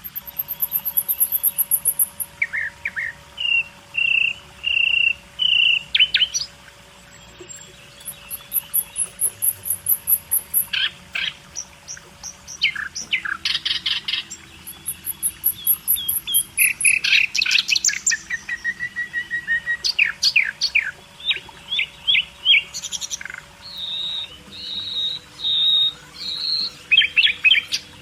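Caged budgerigars and lovebirds chirping and chattering, with many short, high chirps and warbling runs throughout.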